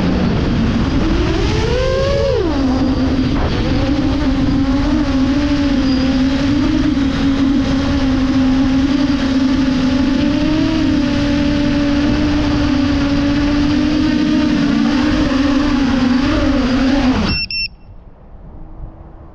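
A 10-inch FPV quadcopter's motors and propellers whining in flight, the pitch rising sharply about two seconds in and then holding nearly steady with small wavers. Near the end the motors cut off suddenly, followed by a brief high beep.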